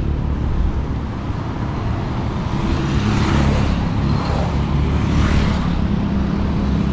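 Road traffic: a steady rumble of engines and tyres, with several vehicles passing by in turn.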